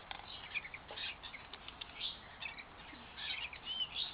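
Several birds chirping and squawking in short, overlapping calls with clicky chatter, and a brief arched call near the end.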